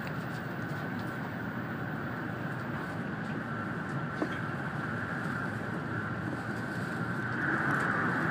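Steady running noise of an N700-series Shinkansen at speed, heard inside the passenger cabin: an even rumble with a high hiss that grows louder near the end.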